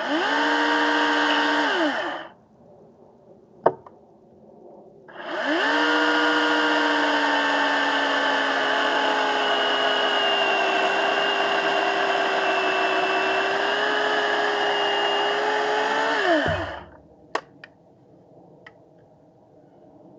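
Electric chainsaw run in two bursts: a short burst of about two seconds, then, after a pause, a long run of about eleven seconds. The motor whine rises quickly when the trigger is pulled, holds a steady pitch that sags a little partway through the cut, and winds down when it is released. A sharp click falls between the runs and another just after the second.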